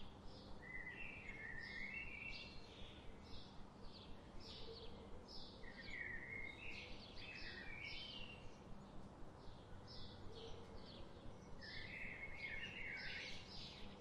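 Forest birds singing: a steady run of short, high chirps about twice a second, with a lower warbling phrase from another bird three times, over a faint steady low hum.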